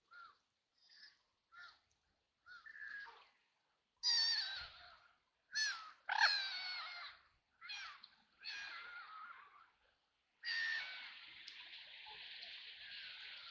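White domestic ducks quacking: a string of short, harsh quacks, faint at first and louder from about four seconds in, running into a longer unbroken stretch of quacking near the end.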